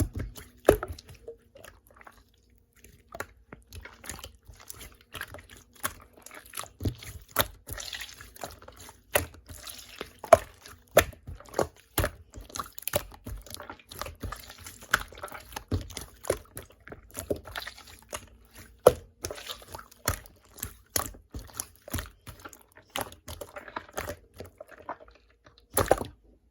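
Liquid-clay slime being squeezed and poked by hand, making irregular wet clicks and pops.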